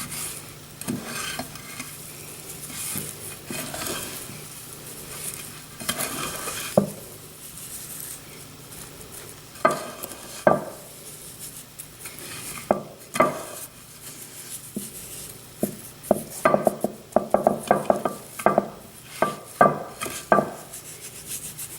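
Kitchen handling sounds: a utensil scraping and stirring against a bowl or plate, then a busy run of sharp clinks and taps of utensils and dishes in the second half, over a light sizzle of butter in a frying pan.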